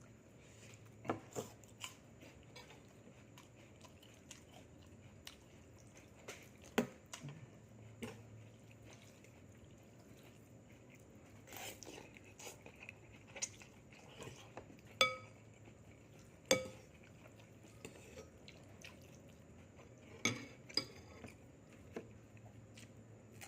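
Eating utensils tapping and clinking against dishes during a meal, scattered irregular taps. Two louder clinks past the middle ring briefly.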